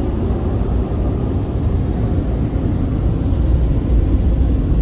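Ryko Softgloss XS2 in-bay automatic car wash running, a steady low rumble with no pauses or changes.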